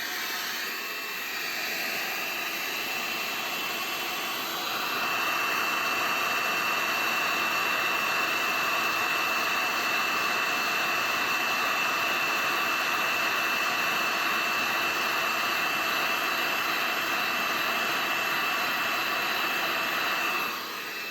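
Electric heat gun running with a steady blowing rush and a thin high whine. It gets louder about four or five seconds in and switches off near the end.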